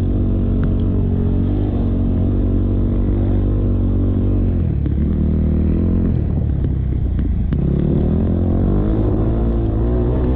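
KTM motocross bike engine revving hard and changing pitch as the throttle is worked, dropping sharply twice, about four and a half and eight seconds in, then climbing again.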